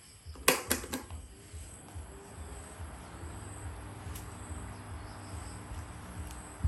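A few sharp clicks or knocks about half a second in, then a steady low rumble with crickets trilling faintly and high in the background.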